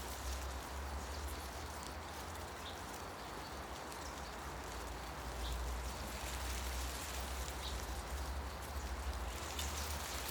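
Forest ambience: wind through the trees with leaves rustling, over a low wind rumble, and a few short, faint bird chirps.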